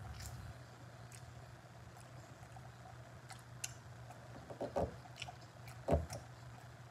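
Quiet chewing of a bite of chicken drumstick, with faint wet mouth clicks and smacks. A few louder ones come about two-thirds of the way in and again near the end, over a low steady hum.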